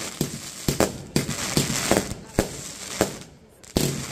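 Fireworks going off in quick succession: sharp bangs about twice a second, with crackling between them. Near the end comes a short lull, then one more bang.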